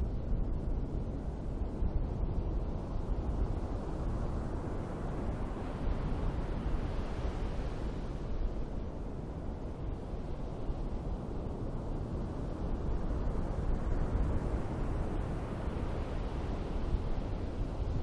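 Ocean surf washing onto a beach in slow swells, about twice, over a steady low wind rumble on the microphone.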